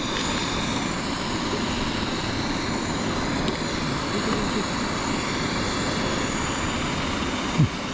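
Pressurised white-gas camp stove (Coleman Feather 400) burner running with a steady, even rushing hiss.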